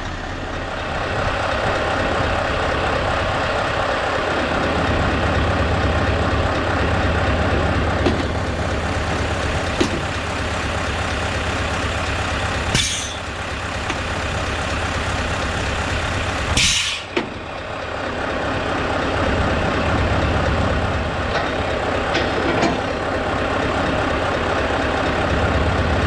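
Scania S650 V8 truck engine running while the truck manoeuvres, its load rising and falling. Two short hisses of air cut in, about halfway through and again a few seconds later, the second louder.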